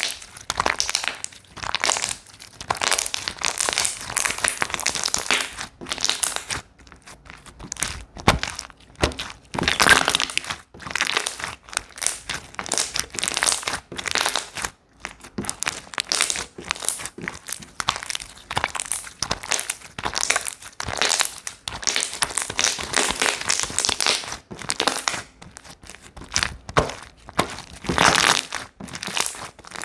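Slime being squeezed, poked and stretched by hand, giving dense, irregular crackling and crinkling that comes in waves, with short quieter gaps.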